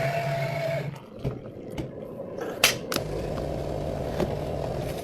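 A steady machine hum with a faint whine, from drink-shop equipment running, cuts off about a second in. Then come a few sharp clicks and knocks, the loudest about two and a half seconds in, over a low hum.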